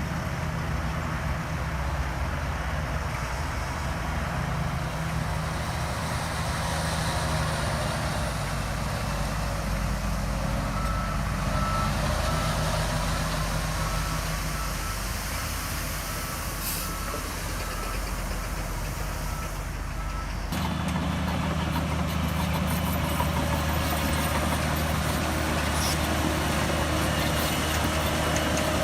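Heavy diesel earthmoving machinery running steadily, with a reversing alarm beeping about once a second through the middle part and a short hiss partway through. About two-thirds of the way in, the engine sound changes abruptly.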